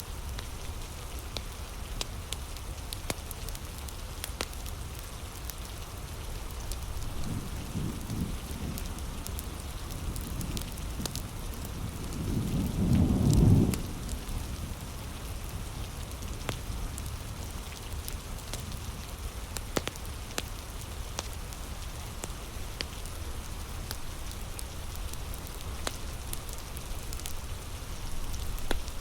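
Steady heavy rain with scattered sharp ticks. A low rumble of thunder comes about seven seconds in and swells into a louder rumble around thirteen seconds in, then fades.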